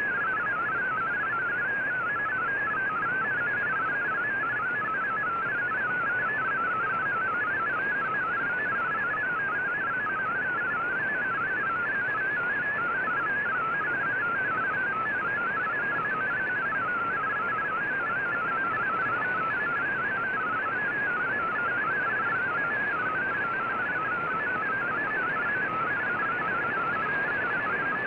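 VOA Radiogram MFSK digital-text signal received on shortwave through an Icom IC-R9500 receiver: a steady warble of rapidly hopping tones in a narrow pitch band over a bed of radio hiss.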